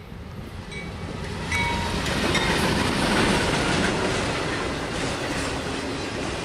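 Freight train's diesel locomotives passing close, followed by autorack cars, with a dense rumble and wheels clicking over the rail joints. The sound swells sharply about a second and a half in as the locomotives draw level, with a few brief high squeals.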